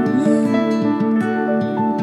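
Acoustic guitar music, plucked notes ringing over a sustained low line, in an instrumental passage of an acoustic gospel song.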